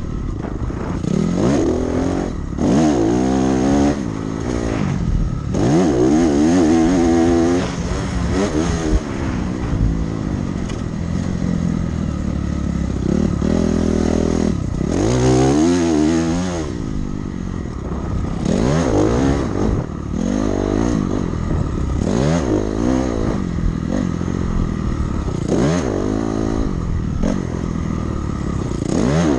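Dirt bike engine ridden hard around a sandy motocross track: the revs climb and drop again and again as the throttle is opened and shut and the rider shifts gears through the turns and jumps.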